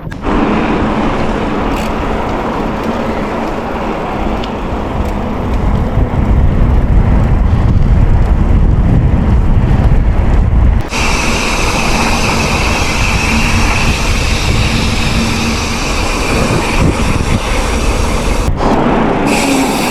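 Wind buffeting the microphone and tyre noise from a bicycle being ridden along a road, heaviest in the middle. About halfway through, a steady high-pitched hiss joins in.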